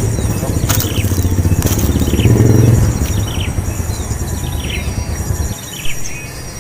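A loud low rumble, like a passing engine or wind on the microphone, dies away about five and a half seconds in. Above it, small birds give repeated short falling chirps over a steady high-pitched insect whine.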